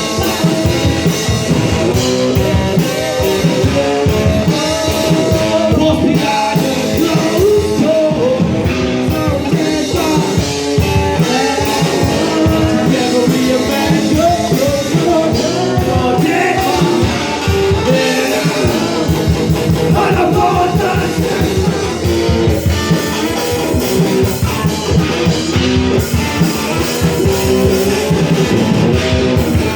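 Rock band playing: electric guitar and drum kit with a singing voice.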